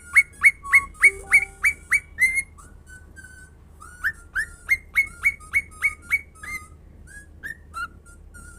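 Pet bird whistling a quick series of short, clear repeated notes, about three or four a second, in two runs of eight or nine notes, with softer scattered whistles between and after.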